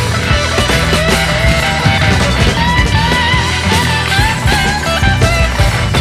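Loud music played through a large carnival sound system with 25-inch subwoofers, heavy pulsing bass under a wavering lead melody.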